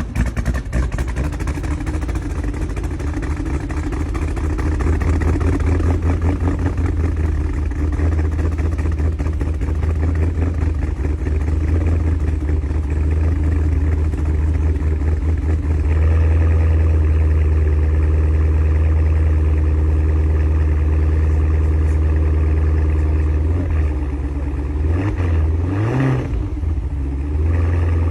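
Cadillac Escalade-V's supercharged 6.2-litre V8 with an aftermarket camshaft, running at high idle straight after a cold start with a choppy, pulsing idle. About 16 s in it gets a little louder, and near the end the engine speed briefly wavers up and down before settling.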